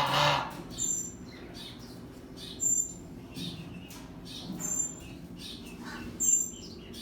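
Birds chirping: a short, high chirp about every two seconds, with louder calls at the start and about six seconds in, over a steady low hum.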